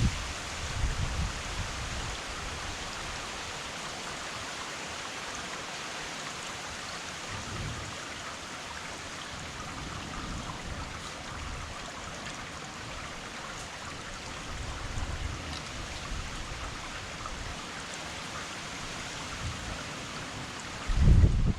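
Heavy rain pouring down in a steady hiss, with a few brief low rumbles, the loudest near the end.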